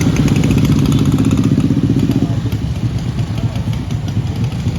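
A motor vehicle engine running close by with a rapid, even pulse, loud for the first two seconds or so and then dropping away.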